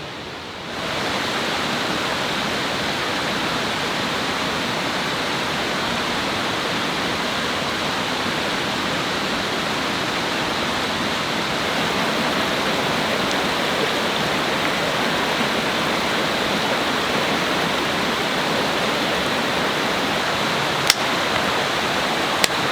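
Steady rushing of a river's flowing water, with two brief sharp clicks near the end.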